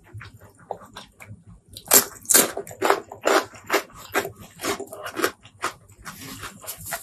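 Close-miked eating sounds: wet chewing and lip-smacking over a mouthful of curry-soaked rice, a quick irregular run of sharp wet clicks, loudest in the middle. A steady hiss comes in near the end.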